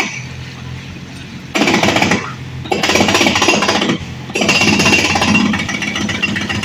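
Excavator breaking up a house: three bursts of rapid hammering and crunching, with quieter gaps between them, over the low hum of the machine.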